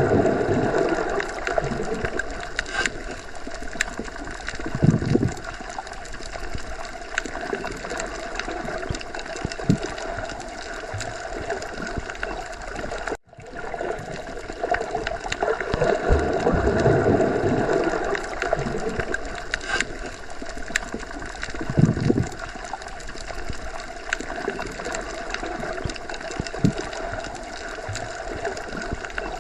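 Underwater ambience: a steady, muffled wash of water with slow swelling surges and gurgles. It cuts out for an instant about 13 seconds in.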